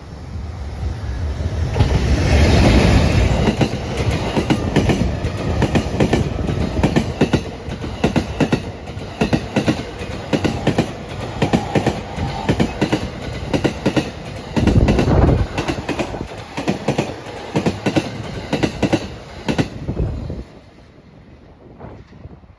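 E231 series 1000-subseries electric commuter train passing while accelerating, its wheels clacking over the rail joints in a long run of rapid, rhythmic clicks. A loud rumble peaks about two to three seconds in, and the clatter stops about twenty seconds in.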